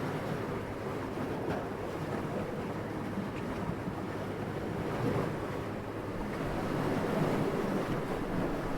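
Steady wind noise, a low even rushing with no distinct events, swelling a little about five seconds in and again near seven.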